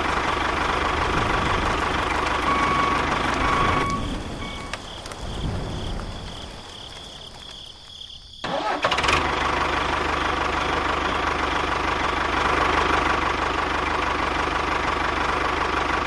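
Tractor engine running steadily, sinking to a quieter hiss about four seconds in, then cutting back in suddenly at full level about halfway through.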